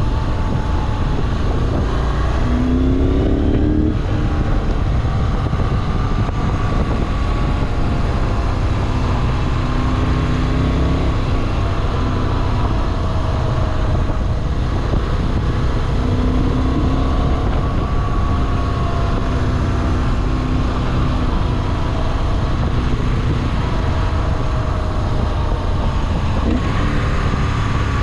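Moto Guzzi V7 Classic's air-cooled V-twin running as the motorcycle is ridden, its pitch rising and falling with the throttle over a steady low rumble.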